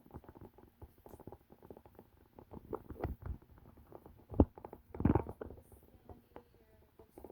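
Irregular light clicking, scratching and rustling, with one sharper knock about four seconds in and a louder rustle just after.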